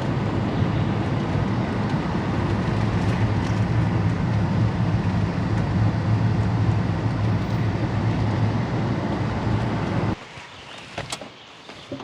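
Steady low rumble of road noise inside a moving car, cutting off suddenly about ten seconds in, followed by a couple of faint clicks.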